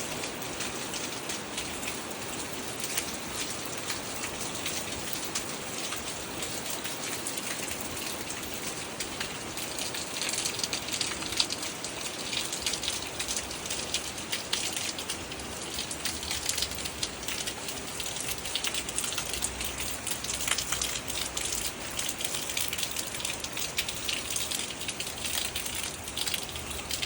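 Heavy rain pouring down, a steady hiss thick with the patter of individual drops, growing a little heavier about ten seconds in.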